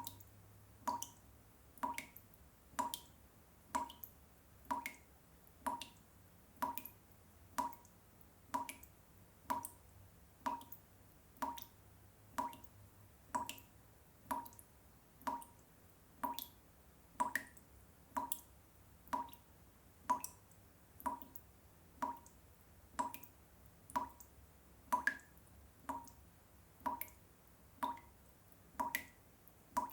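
Water drops falling one at a time into water in a steady drip, about one drop a second, each a short plop with a brief ring.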